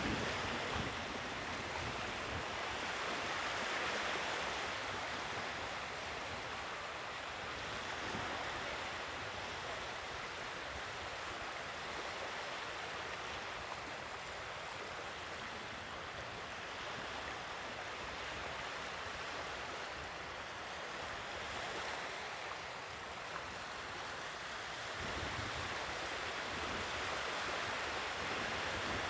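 Sea waves breaking and washing on the shore, a steady rush that swells and eases gently every few seconds, with some wind on the microphone.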